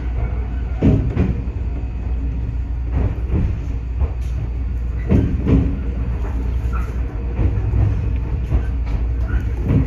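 Iyo Railway 3000 series electric train running: a steady low rumble with pairs of clacks as the wheels pass over rail joints. The pairs come about every two seconds, then a longer gap before the last one near the end.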